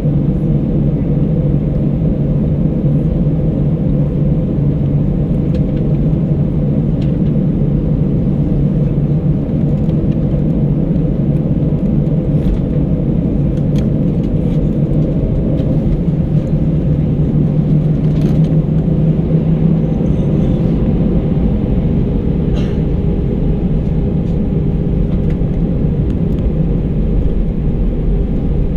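Airbus A319 passenger cabin noise on the ground before takeoff: a steady low rumble and hum from the engines and the airframe as the airliner taxis, with a few faint ticks and rattles.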